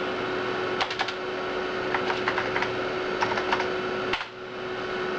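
Typing on a computer keyboard: several short runs of key clicks, ending with a single keystroke about four seconds in. Under it runs the steady hum of the Amiga 4000's hard drive and power supply.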